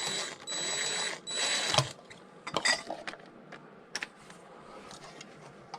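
A power wrench spinning a bolt in a few short bursts with a thin steady whine. Metal clicks and knocks follow as the tool and bolt are handled.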